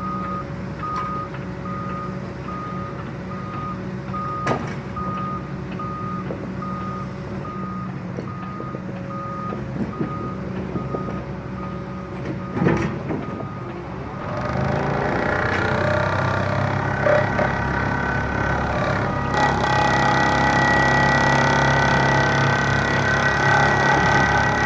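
Excavator working a hydraulic side-grip vibro pile driver: the engine runs steadily while an alarm beeps about twice a second. About fourteen seconds in, the beeping stops and the machinery runs louder with a steady hum.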